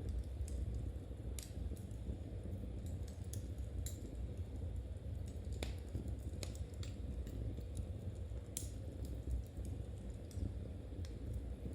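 Knitting needles clicking and tapping together at irregular intervals, about a dozen light clicks, over a steady low rumble.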